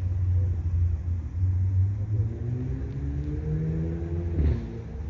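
Low rumble of a motor vehicle's engine speeding up, its pitch rising for about two seconds before dropping away sharply about four and a half seconds in.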